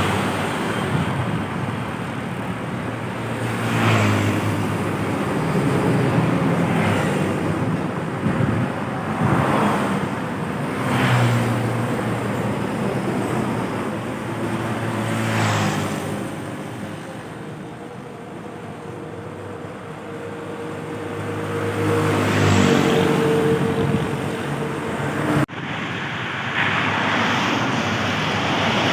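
Heavy road traffic: large diesel trucks and buses passing one after another, each engine growing louder and fading, with a steady engine hum underneath. The sound changes abruptly about 25 seconds in.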